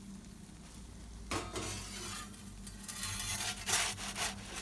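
Pizza peel scraping and rubbing across the floor of a wood-fired oven as a pizza is turned. It starts about a second in, with several sharper scrapes near the end.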